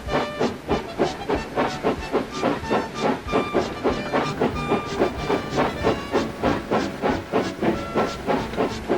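A steam locomotive chuffing steadily at about four puffs a second, with hissing steam, as it pulls a train of trucks.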